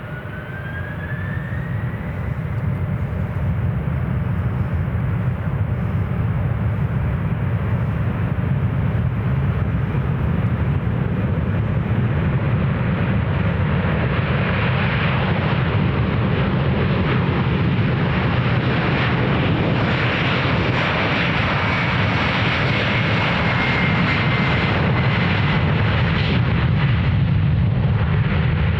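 Boeing 767-400ER jet airliner taking off. Its two turbofan engines spool up with a rising whine over the first couple of seconds, then run at takeoff thrust with a steady, loud rumble and roar. A fainter whine slowly falls in pitch later on.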